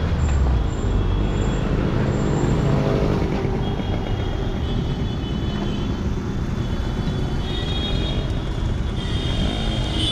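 Busy street traffic: motor vehicle engines running close by, a steady dense rumble.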